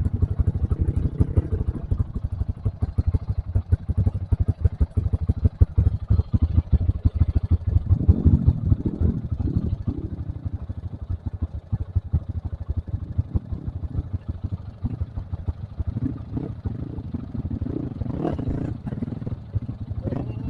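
Trail motorcycle engine running while ridden off-road, a dense, uneven low beat that swells twice, about eight and about eighteen seconds in.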